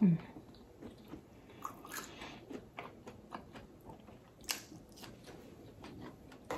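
A person chewing and eating by hand, with small wet mouth clicks and ticks throughout and a sharper click about four and a half seconds in.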